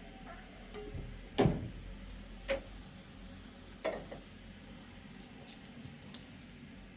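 Three sharp knocks or clicks about a second apart, the first the loudest, with a few fainter ticks over a low steady background.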